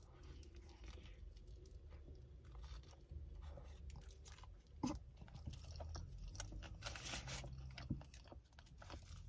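A person biting into and chewing a toasted Subway meatball marinara sub: faint crunching of the toasted bread with scattered small clicks, a slightly sharper one about five seconds in.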